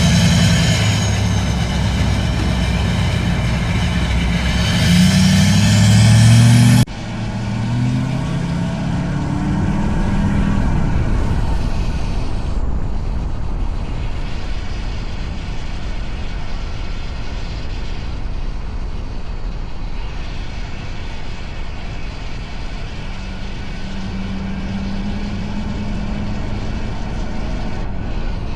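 Duramax diesel pickup with a straight-pipe exhaust, driving. The engine note is loud and climbs in pitch as it revs up, then breaks off suddenly at a cut about seven seconds in. After that, steady wind and road noise lies over a quieter exhaust note as the truck cruises.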